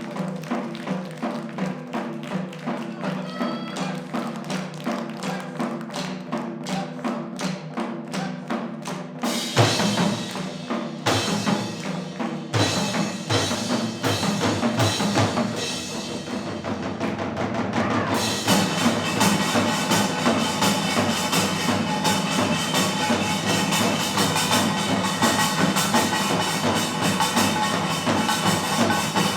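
Live music from a fusion percussion ensemble: evenly spaced drum and block strokes over held pitched notes. A loud hit about a third of the way in breaks the pattern, and about two-thirds in the music turns fuller and denser.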